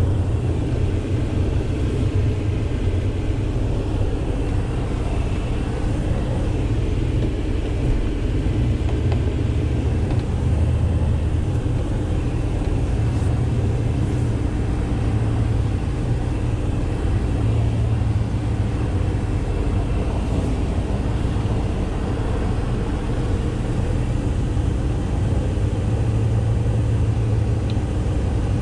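Truck driving on the road: a steady low engine and road rumble.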